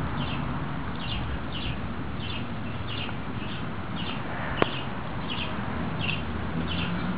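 A bird chirping over and over, short high chirps about twice a second, over a steady background hiss. One sharp click about four and a half seconds in.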